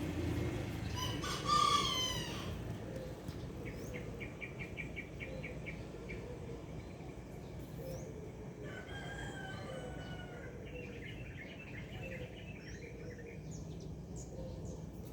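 A rooster crows once, a little after the start, loudest of all; later small birds chirp in quick trills, over a steady low background hum.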